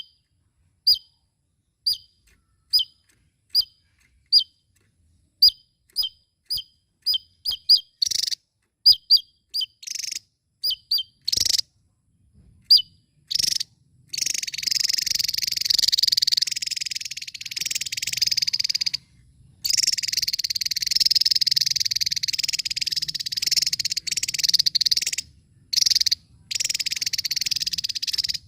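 Javan tesia calling: a series of sharp, separate high notes that come quicker and quicker, then, from about halfway, a long, rapid, high chattering song broken by a few short pauses.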